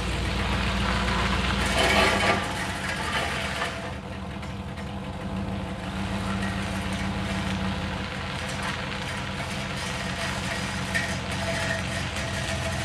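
1986 Chevrolet Caprice engine running with its exhaust broken: the tailpipe is hanging down and the muffler has failed. It gets louder briefly about two seconds in, then settles to a steady idle.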